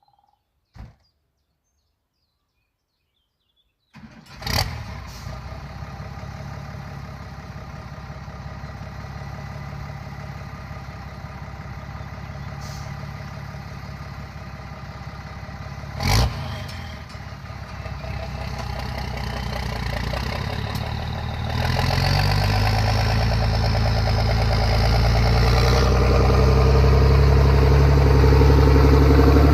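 SAME Antares II 130 tractor's diesel engine with a straight-pipe exhaust starting about four seconds in after a single click, then running at a steady idle. Around the middle there is one brief loud knock, and over the last third the engine gets steadily louder, stepping up sharply and staying loud as the revs rise.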